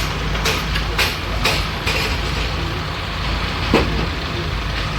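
Heavy diesel engines of Hydra mobile cranes running steadily under load, with a string of sharp knocks in the first two seconds and one louder knock a little before the end.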